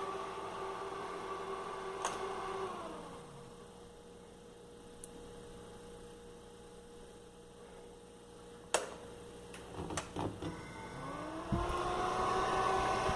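A whining electric motor in a Brastemp BRE 49B refrigerator winds down and stops, leaving a low hum. A sharp click and a few smaller clicks follow, then the motor starts again and its whine rises in pitch as it comes back up to speed.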